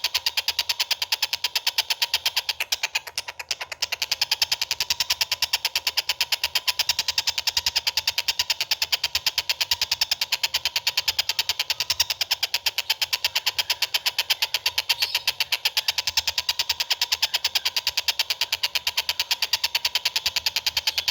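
A songbird's rapid, dry chattering call, a fast even run of sharp notes repeated without pause, briefly softer about three seconds in; the kind of harsh 'tembakan' (rapid-fire) call used as masteran for training cage birds.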